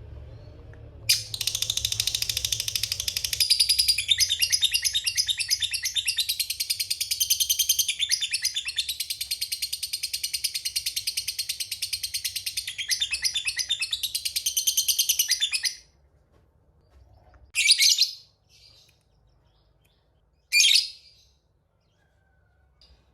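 Lovebird's long ngekek: a rapid, unbroken chatter of sharp high-pitched notes lasting about fifteen seconds, followed by two short single calls.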